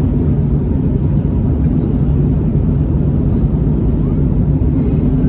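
Cabin noise inside an Airbus A321neo in its climb: the steady drone of the Pratt & Whitney PW1100G geared turbofans and rushing air, with a low hum running under it and a few faint ticks.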